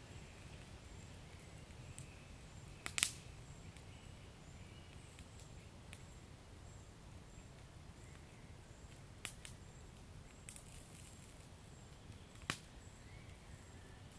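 Wood fire crackling: a low, steady rumble of burning with a few sharp pops, the loudest about three seconds in and a few more in the second half.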